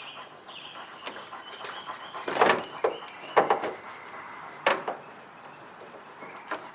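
Several sharp clicks and knocks as a new gas hood strut's end is lined up and pressed onto its ball-stud mount on a Lexus LS430.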